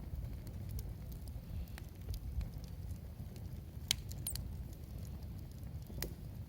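Campfire burning and crackling, with scattered small ticks over a low steady rumble and a few sharp pops, the loudest about four seconds in and another about six seconds in.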